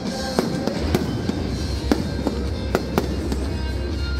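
Fireworks going off in a rapid, irregular string of sharp bangs, about two to three a second, over loud music. A heavy bass comes in about a second in.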